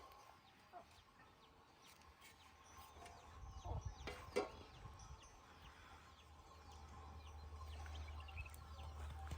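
Faint outdoor birdsong: many short, high falling chirps, with two louder falling calls about four seconds in. A low rumble builds through the second half.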